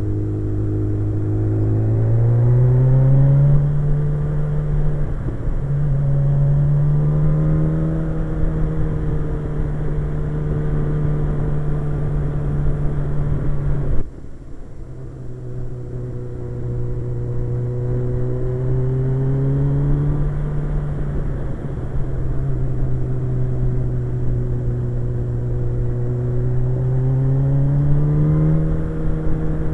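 Suzuki GSX-R 1100 inline-four engine pulling under way, heard from the rider's seat over wind rush: the engine note rises, dips briefly for a gear change about five seconds in, then holds steady. About halfway through the sound cuts abruptly to a lower, steady engine note that rises again near the end.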